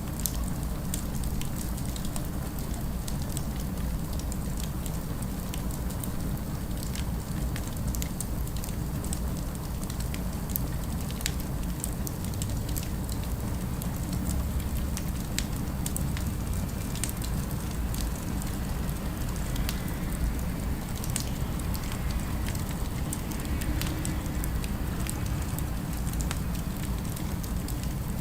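Wood fire crackling: scattered small pops and snaps over a steady low rumble.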